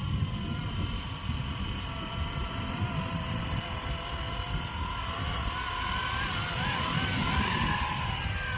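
Blade 230 electric RC helicopter hovering: its motor and rotors give a steady set of high whining tones that wobble in pitch for a few seconds past the middle, over wind rumbling on the microphone.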